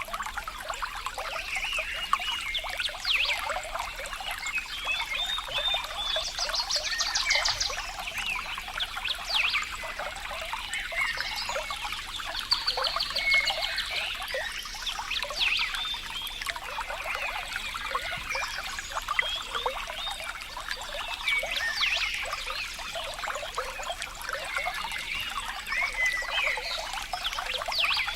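Water trickling and flowing steadily, with many short chirps, rapid trills and falling calls from wildlife over it throughout.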